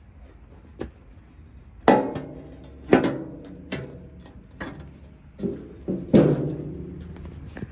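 Irregular metal clanks and knocks, about nine in all; the loudest come about two, three and six seconds in, and each rings briefly after the strike.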